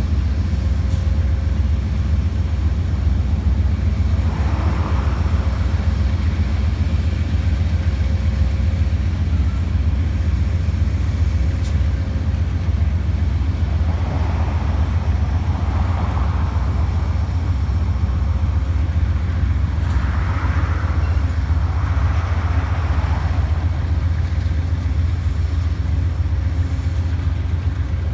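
Amtrak train's diesel locomotives running with a steady low rumble, with a few short swells of noise over it.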